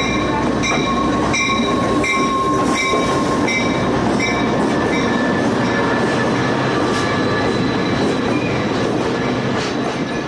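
Amtrak passenger train rolling close by, its wheels rumbling and squealing on the rails. A regular ringing repeats about every 0.7 s through the first three seconds.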